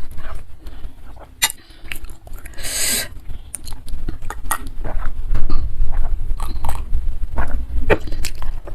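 Close-miked chewing of food, with many short wet clicks and smacks at irregular spacing and a brief noisy burst about three seconds in.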